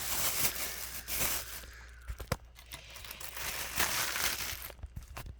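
Plastic packaging bag crinkling and rustling as it is worked off a ceiling fan motor, with a couple of light knocks a little past two seconds in.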